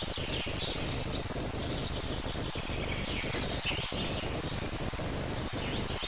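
Small birds chirping in short, scattered calls over a steady hiss.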